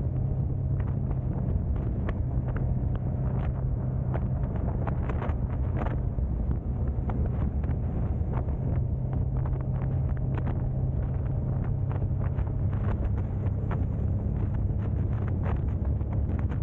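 Car driving at a steady pace: a constant low drone of engine and road noise, with wind buffeting the camera microphone and many small clicks and rattles scattered through it.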